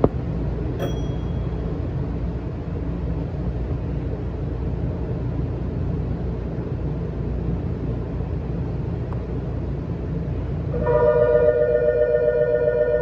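Steady low rumble of a commuter train. About eleven seconds in, a steady ringing signal with several tones starts and keeps sounding.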